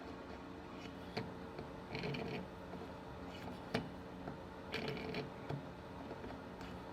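Hand tap turned in a tap wrench, cutting bar-stud threads into a chainsaw's soft magnesium crankcase: faint scraping strokes and two sharp clicks over a steady hum.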